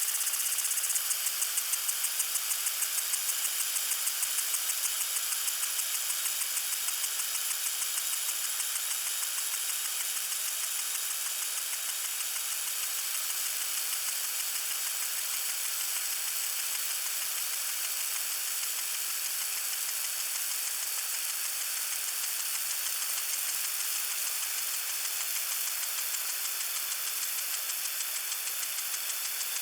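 Lawn sprinkler spraying water: a steady high hiss with a regular pulsing for the first several seconds, then evening out.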